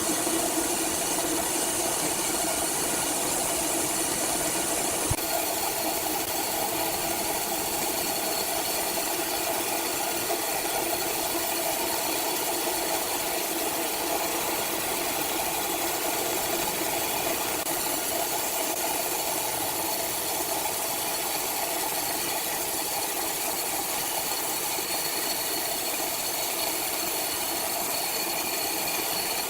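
Sawmill machinery running, a steady mechanical hum and whine with constant noise.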